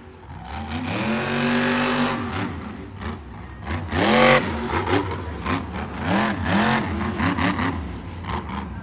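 Monster truck engine revving hard in repeated bursts: a long climb and hold about a second in, the loudest rev around four seconds in, then a run of quick throttle blips.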